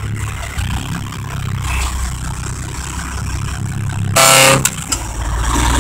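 Old diesel truck engine idling steadily, with one short loud blast of the truck's horn about four seconds in.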